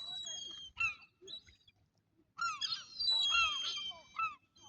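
Gulls calling: a cluster of short arched calls repeated several times in the second half, with fainter thin high calls near the start.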